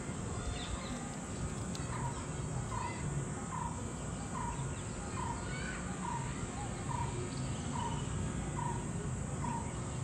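A bird repeating one short, falling call over and over, a little more than once a second, with scattered higher chirps from other birds.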